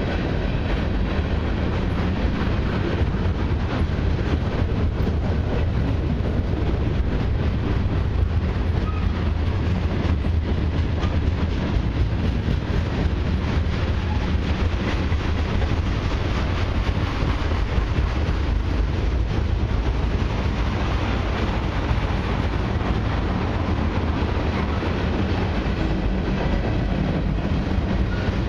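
Freight cars rolling past at close range: a steady rumble of steel wheels on rail, with a continuous run of clicks as the wheels cross rail joints. The passing cars are tank cars, boxcars and hopper cars.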